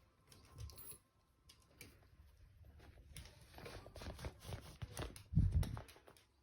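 Light, irregular clicks and taps of a small dog's claws on a hard indoor floor as it moves about, with one louder low thump about five and a half seconds in.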